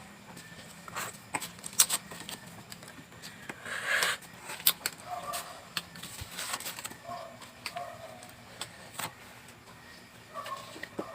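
Eating sounds from a mukbang: scattered clicks and taps, with a short crunch about four seconds in. A few faint short calls sound in the background.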